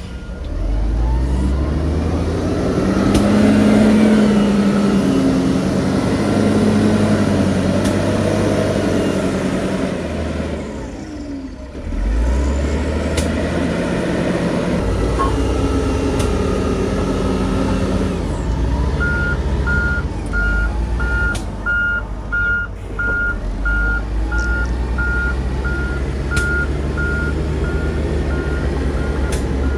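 Heavy diesel engines of a bulldozer and dump truck working, revving up a few seconds in and easing off briefly near the middle. Over the second half a reversing alarm beeps steadily, about one and a half beeps a second.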